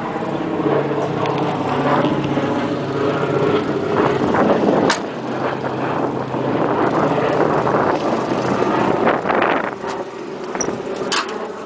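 Chevrolet 396 big-block V8 of a 1972 Camaro idling steadily, with a single sharp click about halfway through.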